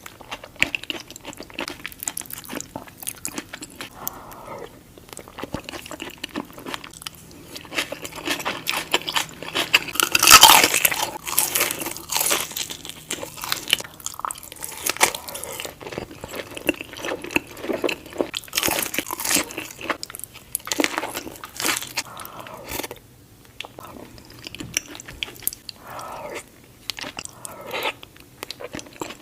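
Close-miked eating sounds: a person biting and chewing crunchy food, with many sharp crunches and a loud burst of crunching about a third of the way through.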